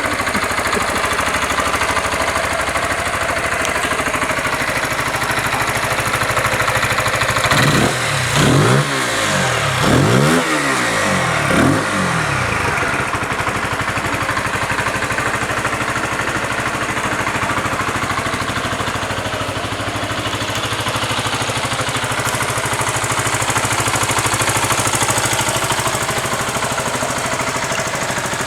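Zontes 125 motorcycle engine idling steadily, revved three times in quick succession from about eight to twelve seconds in, each rev rising and dropping back, then settling to idle again.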